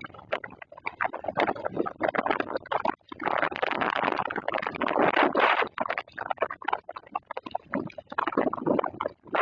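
Summer storm: gusting noise that swells and fades, with many sharp, irregular clattering knocks throughout.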